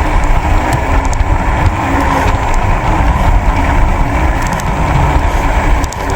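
Loud, steady motor-vehicle road noise with a constant deep rumble.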